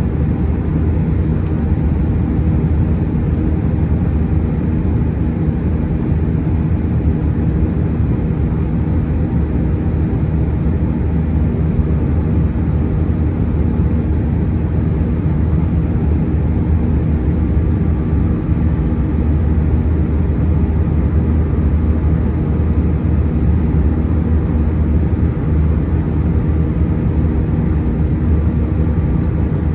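Steady, loud cabin noise inside an Airbus A320-211 airliner: the hum of its CFM56 engines mixed with the rush of air along the fuselage, even and unchanging throughout.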